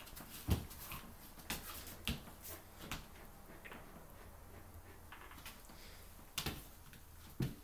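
A chow chow and a Samoyed playing together, making scattered knocks and scuffling sounds, with the loudest knocks about half a second in and twice near the end.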